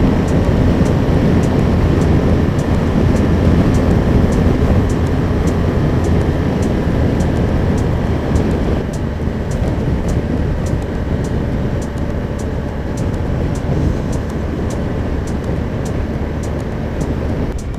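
Motorcycle running at road speed: a steady engine drone under heavy wind rush on the microphone, easing slightly in the second half.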